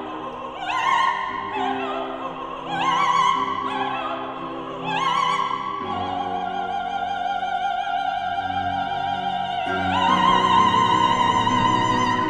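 Operatic singing with wide vibrato over instrumental accompaniment: a few short phrases, then a long held note, and about ten seconds in a higher, louder held note.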